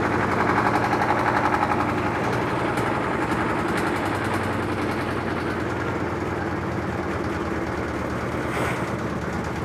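Electrolux LT13B top-load washing machine running, a steady motor hum with a fast rattle from the cabinet, a little louder in the first two seconds. The rattle is the suspension noise the machine is being tested for.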